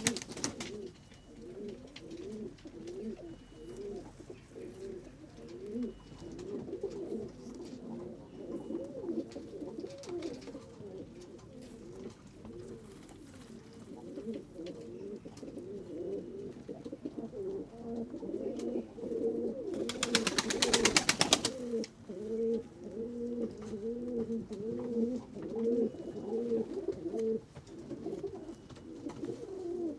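Several domestic pigeons cooing continuously, their low warbling calls overlapping. About two-thirds of the way through comes a brief burst of rapid flapping, typical of pigeon wingbeats.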